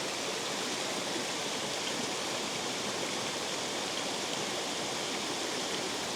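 Water pouring steadily through a spillway, an even, unbroken rush of falling water.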